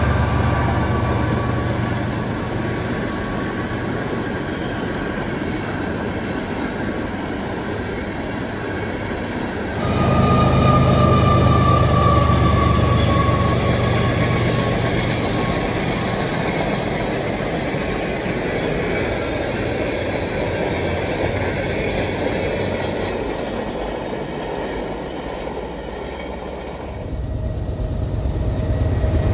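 Train rolling past with a steady rumble of wheels and cars on the rails. A thin, high wheel squeal sets in about a third of the way through and slowly falls in pitch over several seconds. The sound jumps abruptly twice, as if cut between takes.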